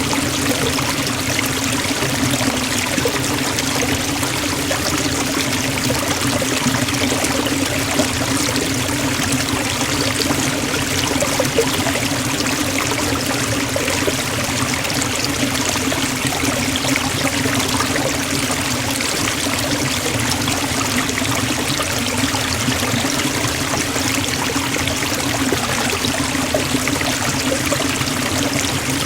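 Forest waterfall: a steady rush of falling and splashing water, even and unchanging throughout.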